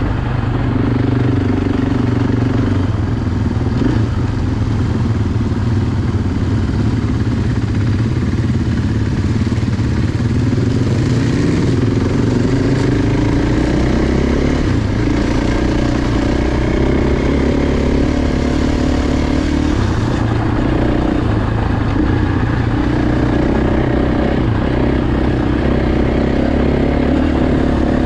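Off-road motorcycle engine running under riding load, its pitch rising and falling with the throttle.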